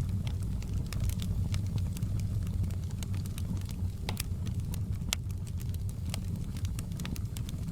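Wood fire burning in a fireplace: a steady low rumble with frequent sharp crackles and pops from the burning logs, the loudest pops about four and five seconds in.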